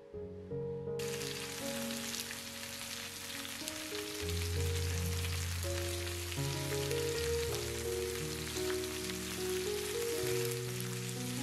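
Pork-belly-wrapped enoki mushroom bundles sizzling as they fry in a pan, starting suddenly about a second in, with background music.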